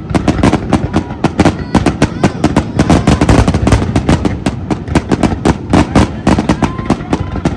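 Fireworks going off in rapid succession: a dense, continuous string of sharp bangs and crackles, several a second.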